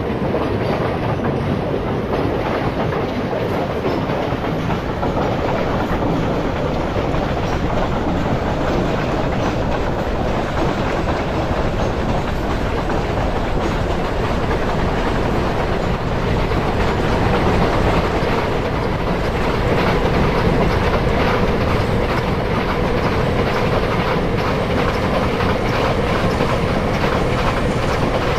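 Indian Railways train running along the track, a steady rumble with the clickety-clack of wheels over rail joints.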